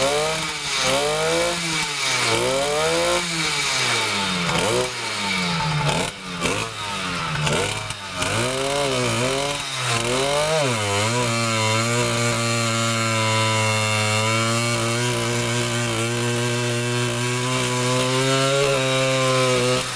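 Motorized bicycle engine revved up and down over and over, then held at a steady high speed through the second half. It keeps running cleanly with water squirted into its magneto area; the water does not short out the magneto.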